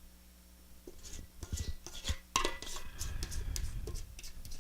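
A utensil scraping and knocking against a mixing bowl as thick cake batter is poured and scraped out into a baking pan, in irregular small clicks and scrapes.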